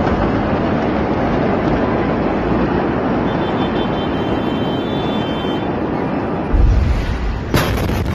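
Loud, continuous rushing roar of the Beirut port explosion as picked up by a phone, with a deep low rumble surging about six and a half seconds in. The sound changes abruptly shortly before the end.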